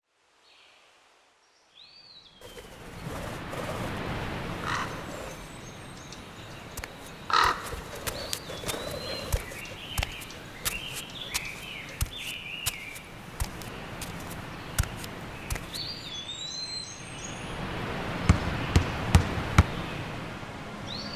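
Birds chirping and calling over an outdoor background hiss, starting about two seconds in. Scattered sharp clicks or taps run through it, with a quick series of four louder knocks near the end.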